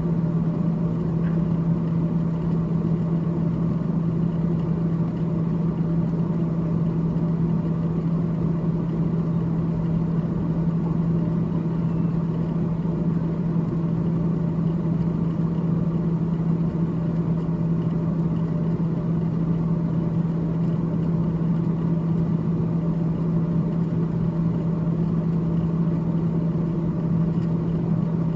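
Freezer evaporator fan in a GE GTH18XCTZRBB refrigerator running steadily: a constant low hum with airy noise over it.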